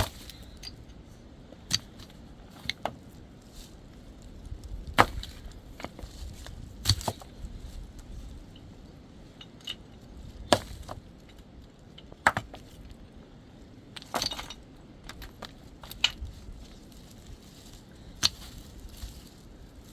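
Wood being struck hard with a hand tool: about a dozen sharp, irregular blows, one every second or two.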